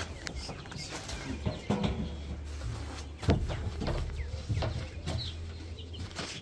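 Young broiler chicks peeping and chirping, with scattered knocks, the sharpest one about three seconds in.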